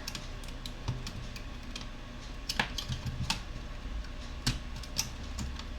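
Small, irregular clicks and taps of plastic and metal laptop parts handled by hand while a laptop's internals are taken apart.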